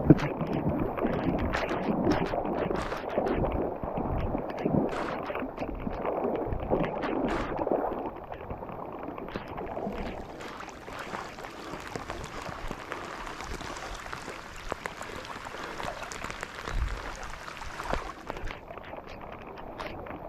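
Water splashing and sloshing, busiest and loudest over the first eight seconds, then fainter.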